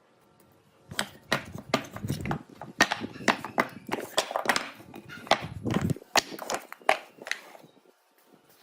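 An irregular run of sharp knocks and clatters of hard objects being handled and set down, starting about a second in and stopping shortly before the end.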